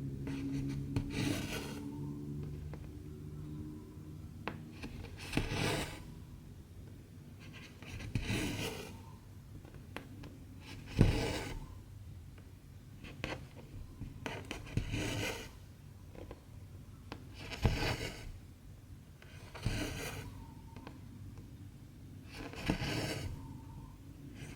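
Cross-stitch needle and cotton thread being pulled through stamped cross-stitch fabric, a short rasping pull about every three seconds, with an occasional sharp tick.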